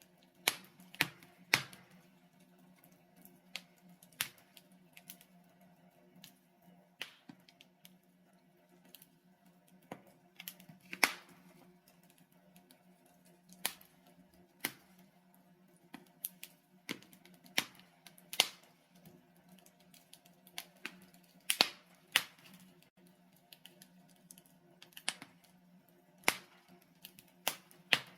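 Logs burning in a fireplace, crackling with irregular sharp pops, a few of them much louder, over a faint steady low hum.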